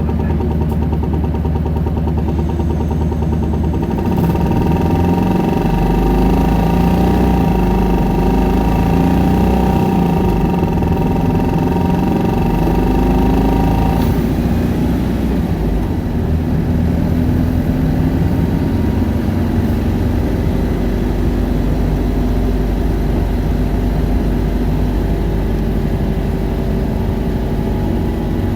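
Isuzu Erga city bus's diesel engine heard from the cabin, pulling hard at high revs with a whine on top from about four seconds in. About fourteen seconds in the whine cuts off and the engine settles back as the bus runs on.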